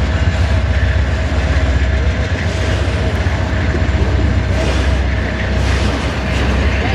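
A train passing, with a steady low rumble and rail noise that holds even throughout.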